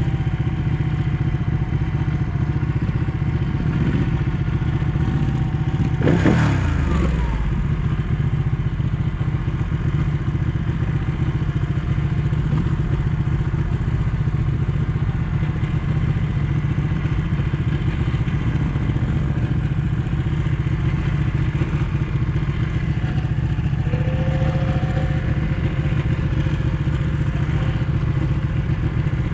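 Ducati 1199 S Panigale's Superquadro L-twin engine running steadily. About six seconds in, it revs up briefly and falls away quickly.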